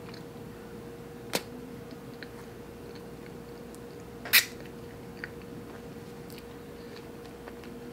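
A person chewing a soft mouthful of cream-topped donut with the mouth closed, with two sharp mouth smacks about a second and a half and four and a half seconds in, over a faint steady hum.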